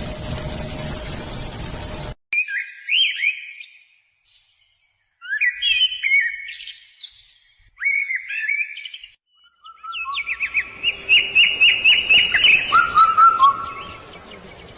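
Songbirds singing in short separate phrases of quick gliding chirps, broken by silent pauses. About two-thirds of the way in, a longer, fast run of repeated notes begins. In the opening two seconds there is a steady hiss with a faint hum, which cuts off abruptly before the birdsong.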